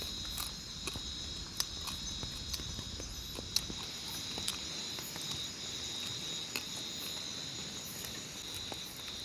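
Forest insects chirring steadily at two high pitches, with scattered short, sharp clicks over the top.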